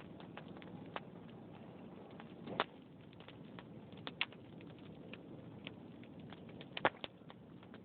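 Wood fire crackling, with irregular small pops and two louder snaps, one about two and a half seconds in and one near the end, over a low steady rush of flames.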